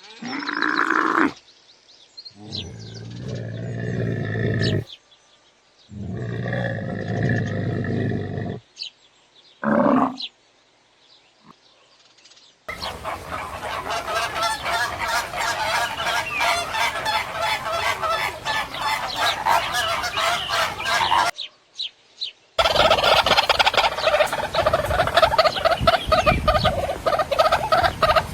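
A series of separate animal sound clips: two low-pitched calls of about two seconds each, then a flock of poultry calling over one another in a dense, continuous clamour, broken by a short gap.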